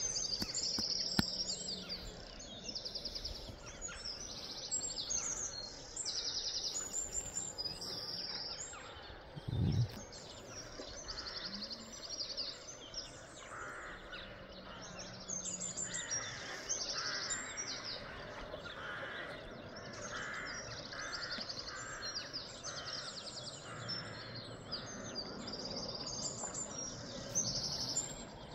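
Songbirds singing: short high trilled phrases repeat again and again, and a series of lower notes joins in partway through, over a faint steady hiss. There is a brief low thump about ten seconds in.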